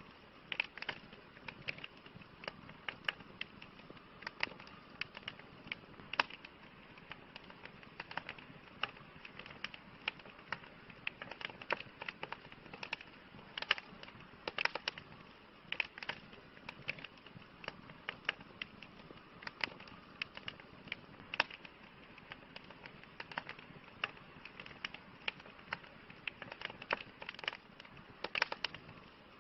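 Campfire crackling: sharp, irregular pops and snaps over a soft, steady hiss.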